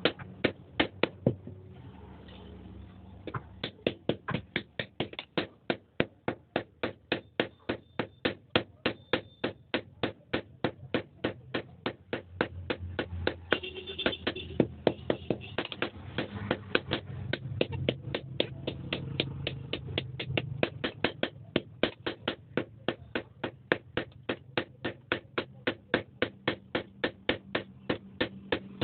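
Blacksmith's hammer striking steel on an anvil in a fast, even rhythm of about three blows a second, pausing for about two seconds near the start.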